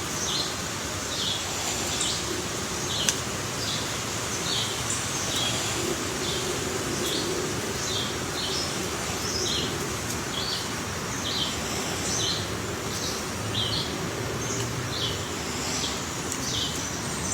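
A bird repeating short, high chirps about one or two a second, over a steady hiss of outdoor background noise. A single sharp tap comes about three seconds in.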